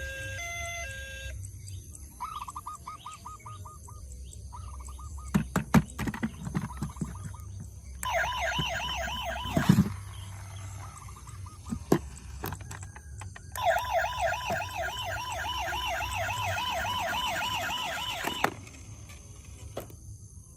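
Electronic siren sounds from battery-powered toy emergency vehicles: a fast warbling wail in three stretches, the last and longest lasting about five seconds, after a few stepped electronic beep tones at the start. Sharp clicks and knocks come between the stretches.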